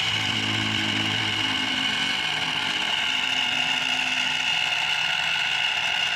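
Small electric DC motor and gearbox of a homemade RC model tractor running with a steady high-pitched whine, straining as it pulls a large loaded trolley.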